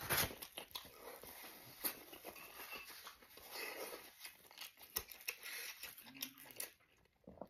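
A person chewing a mouthful of stewed lamb, with soft wet mouth clicks and smacks.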